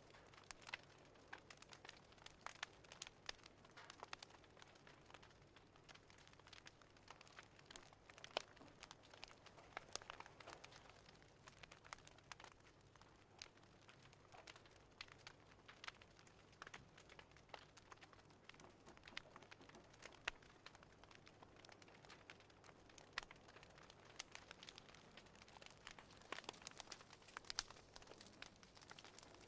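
Faint wood fire crackling, with irregular small pops and snaps over a low steady background.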